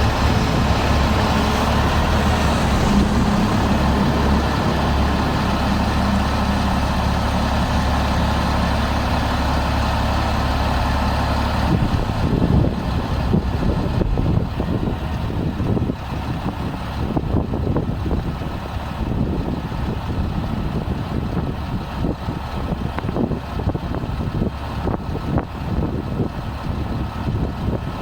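Freightliner M2106 truck's diesel engine running at a steady hum. About twelve seconds in, the sound turns uneven and choppy.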